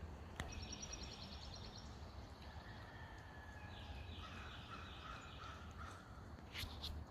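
Several wild songbirds singing in a morning chorus: a fast, high trill near the start, then long whistled notes and warbling phrases, and two short, sharp calls near the end. A single click comes shortly after the start, over a steady low rumble.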